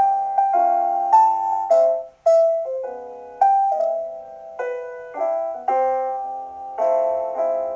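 Gentle solo piano music, chords and melody notes struck one after another and left to ring out.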